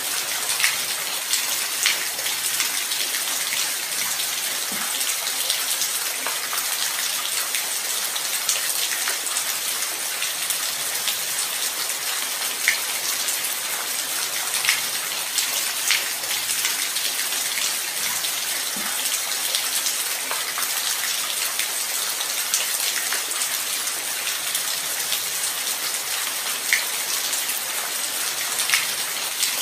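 Steady light rain: a continuous high hiss of falling rain with scattered louder individual drops ticking close by.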